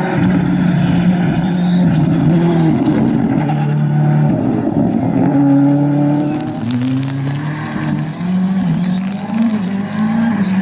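Ford Fiesta R5 rally car's turbocharged 1.6-litre four-cylinder engine under hard acceleration, its pitch climbing and dropping several times through gear changes.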